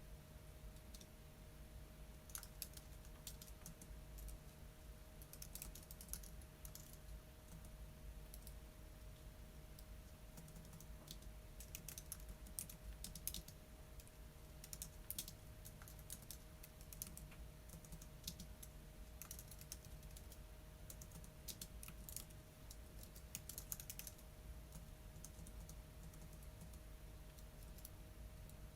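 Faint typing on a computer keyboard: irregular runs of keystrokes that stop near the end, over a low steady hum.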